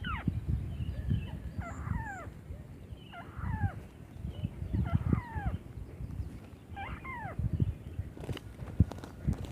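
White-browed crake calls: a descending call with a few harmonics, repeated five times about every one and a half to two seconds. A low rumbling noise runs underneath, and a few sharp clicks come near the end.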